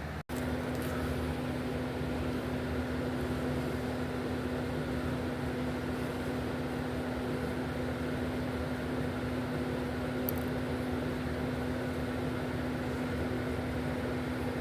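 Steady machine hum with one constant tone, unchanged throughout after a brief cut-out at the start.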